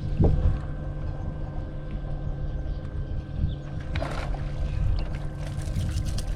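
A boat's motor running steadily with a low rumble, and a short rustle about four seconds in.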